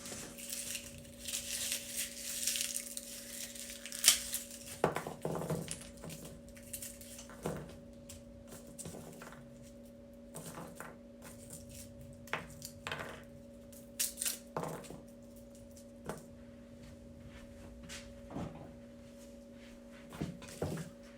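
Scattered clicks, clinks and light knocks of kitchen utensils and containers being handled while meat is seasoned with garlic, with some rustling in the first few seconds, over a faint steady hum.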